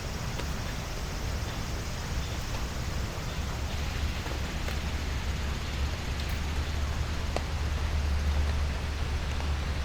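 Steady rain falling, with scattered faint drop ticks over an even hiss and a low rumble that swells toward the end.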